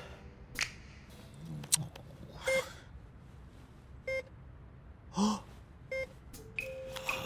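A few short electronic beeps, spaced one to two seconds apart, mixed with short breathy gasp-like vocal sounds and a couple of light clicks.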